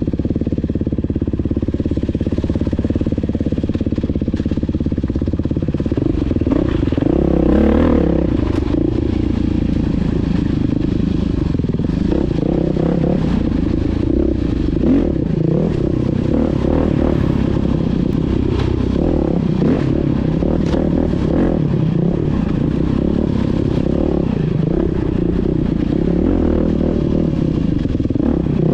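Dirt bike engine running as the bike is ridden, its revs rising and falling, with a stronger burst of revving about seven seconds in. Clattering and scraping from the bike over rough ground run alongside.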